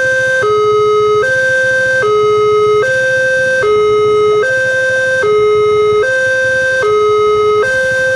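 Railway level-crossing warning alarm sounding a steady high-low two-tone electronic signal, the notes alternating about every 0.8 seconds, the warning that a train is coming and the barriers are down.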